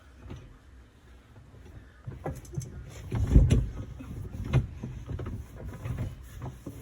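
Microfiber cloth wiping the inside panels of a dishwasher: uneven rubbing and knocking sounds with a few sharp clicks, loudest about three and a half seconds in after a quiet start.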